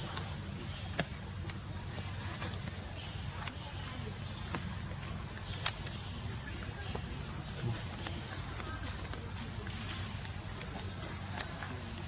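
Insects chirring steadily in the background, with a high pulsing trill about five times a second, and a few sharp clicks over it.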